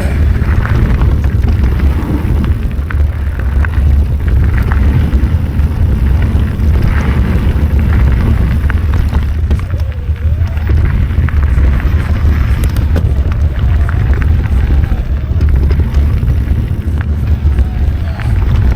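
Wind buffeting the microphone of a camera on a mountain bike moving along a dirt trail: a steady low rumble, with scattered clicks and rattles from the bike over the ground.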